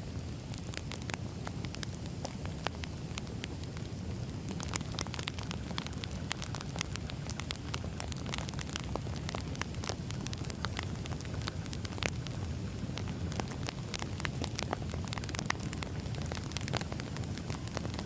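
Wood fire crackling steadily: a low, even rumble of burning logs with many sharp, irregular pops and snaps.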